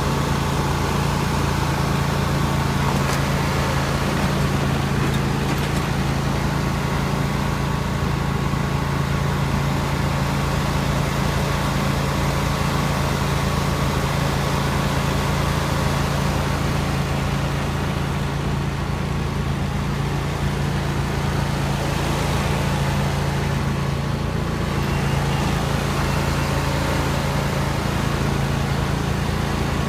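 Riding lawn mower engine running steadily under way, a loud, even low hum with no change in pitch.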